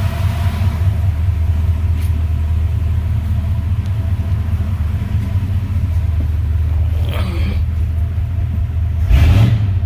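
1986 Dodge D100's small-block V8 idling with a steady low rumble, its electric cooling fans running. The throttle is blipped lightly about seven seconds in, then revved harder near the end.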